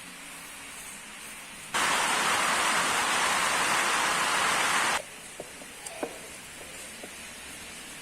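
Steady hiss of falling rain, broken by a much louder rush of noise for about three seconds that starts and stops abruptly; a few faint clicks follow.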